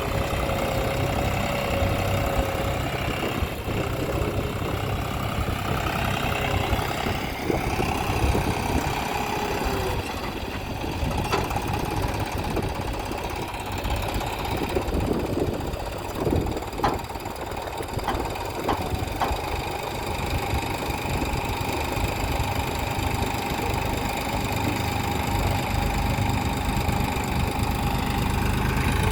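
John Deere tractor's diesel engine running, its pitch shifting up and down in the first ten seconds and holding steady near the end, with a few brief knocks around the middle.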